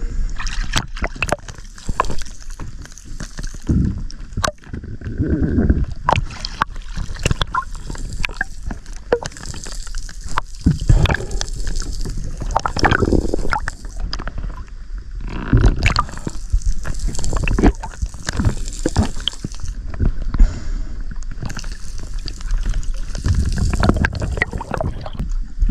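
Sea water sloshing and gurgling with irregular splashes and knocks.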